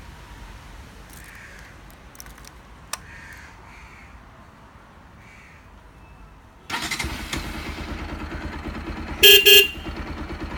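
Bajaj Pulsar 200NS single-cylinder engine starts about two-thirds of the way in and idles with a steady pulse. Near the end its Roots dual horn, fitted in place of the stock horn, sounds two short loud blasts in quick succession.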